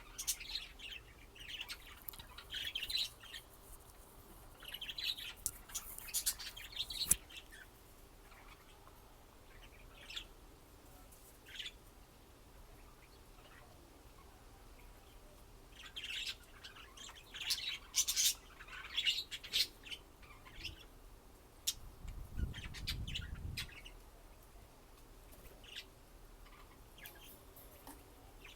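Budgerigar chirping in short bursts of quick high notes, with a quieter stretch in the middle. There is a brief low rumble about two-thirds of the way through.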